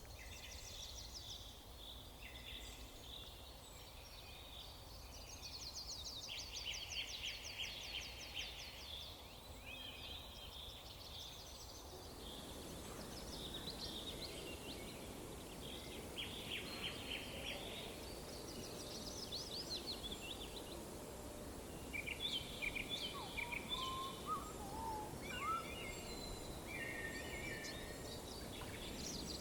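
Several songbirds singing and calling, with quick chirps and fast buzzy trills, over a steady background hiss that grows louder about twelve seconds in.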